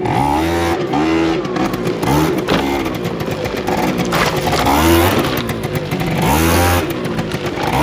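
Small motorcycle engine revving up and falling back again and again while it is ridden through deep water; the rider afterwards says it sounded like it was starting to drink water.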